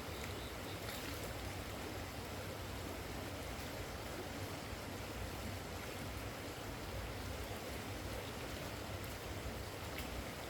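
Steady rush of heavy rain and running water, with a few faint drop ticks.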